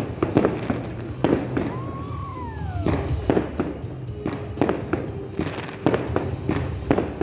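Consumer fireworks cake (a multi-shot salute battery) firing shell after shell: sharp bangs at an uneven pace of roughly two a second.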